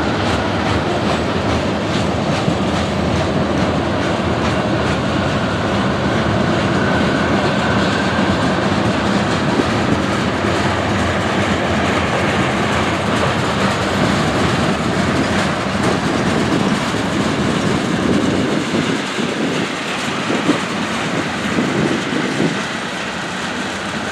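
Freight train cars rolling past at close range with a steady, loud rumble. About 18 seconds in, the deep low rumble drops away and the sound turns uneven, as the end of the train nears.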